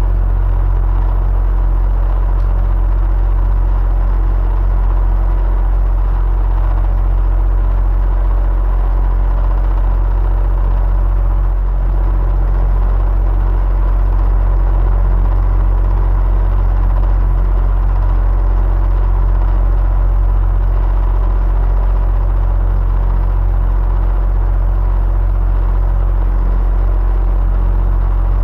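Electric fan running steadily: a constant low hum with a rush of moving air and a few faint steady tones over it.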